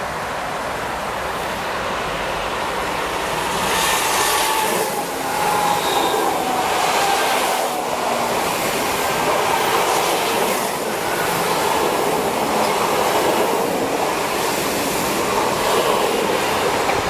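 Electric multiple-unit passenger train passing along the platform: a steady rush of wheel and running noise that swells a few seconds in and holds, with scattered clacks of wheels over rail joints and a faint falling whine as the train comes by.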